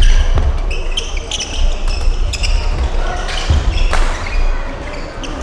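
Badminton rally sounds in a large gym: a few sharp racket hits on the shuttlecock, with many short shoe squeaks on the court floor and low thuds of footsteps.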